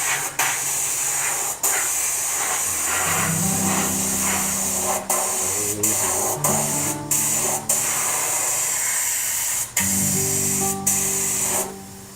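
Spray paint hissing in long bursts, cut off briefly several times between passes, over background music.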